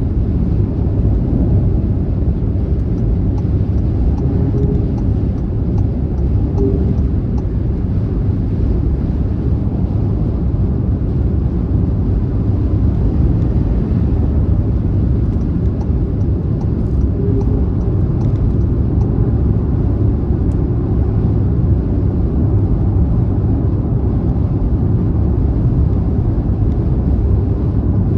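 Car travelling at highway speed: a steady, even low rumble of road and tyre noise.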